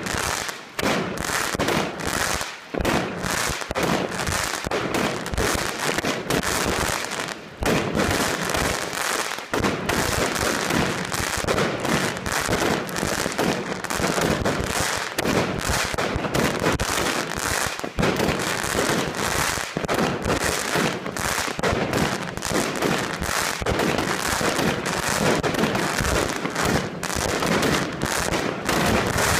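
Evolution Fireworks 'Ice Queen' 42-shot cake firing in a rapid barrage: shots bang one after another while the bursts' crackling stars fizz and pop almost without a break, with a few short lulls in the first ten seconds.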